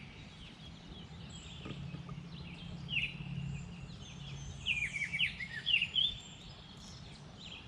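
A songbird singing: several short phrases of high chirps, each sliding downward, a second or two apart. A faint low hum sits underneath for a few seconds in the middle.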